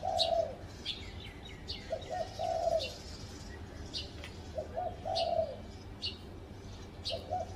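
Spotted dove cooing: a phrase of a few short notes ending in a longer coo, repeated about every two and a half seconds. Short, high chirps from a smaller bird come in between.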